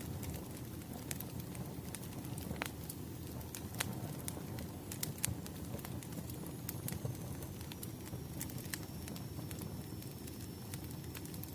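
Crackling wood fire: steady low noise of the burning with irregular sharp pops and crackles. A faint thin high tone comes in about halfway through.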